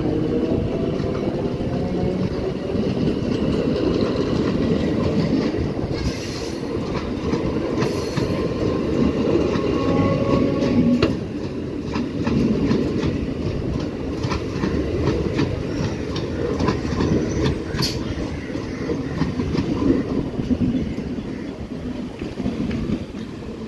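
EMU local train coaches rolling past close by: a steady rumble of wheels on the rails, with occasional clicks as the wheels cross rail joints. The sound eases off near the end as the last coach goes by.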